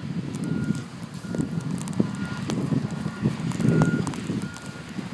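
A vehicle's reversing alarm beeping steadily, about two short beeps a second, over a low rumbling engine.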